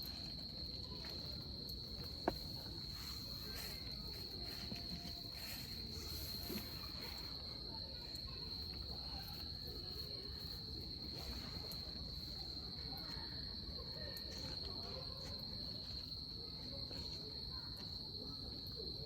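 Wood campfire crackling with scattered small pops and one sharper snap about two seconds in, over an insect's unbroken high-pitched trill.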